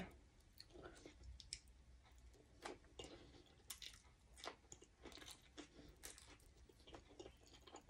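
Faint, close-up mouth sounds of a person chewing and biting food, irregular small clicks throughout; she bites into a piece of grilled beef liver about halfway through.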